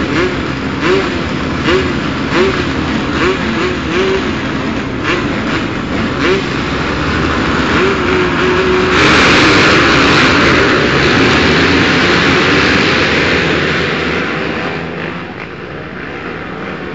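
A field of motocross bikes revving in short blips on the start line, then all opening to full throttle at once about nine seconds in as they launch. The massed engine noise fades over the last few seconds as the bikes pull away.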